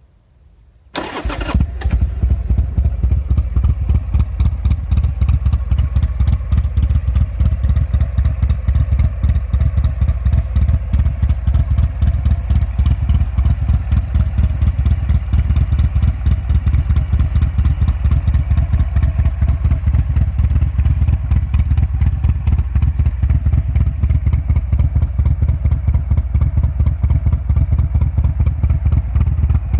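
2006 Buell XB9S air-cooled V-twin starting about a second in, catching at once, then idling loudly with an uneven, loping beat.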